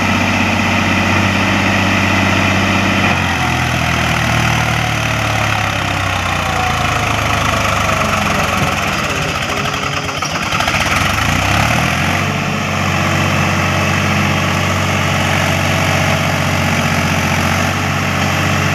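Swaraj tractor's diesel engine running, its speed changing a few times: it shifts about three seconds in, wavers unevenly around the middle, then settles into a steady run.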